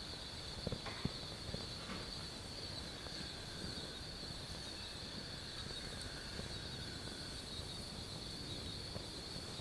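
Night insects, crickets, trilling in one steady high-pitched band. A few faint clicks come in the first two seconds.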